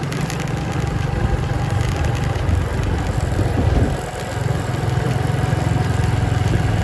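Small motorcycle engine running while the bike is ridden, with road noise, the level dipping briefly about four seconds in.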